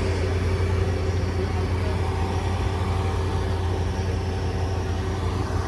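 Flatbed tow truck's engine running with a steady low drone.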